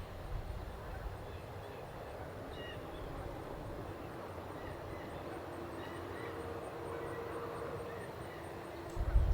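Outdoor nature ambience: a few faint bird chirps over a steady background hiss, with a distant steady drone in the second half. A loud low rumble starts suddenly right at the end.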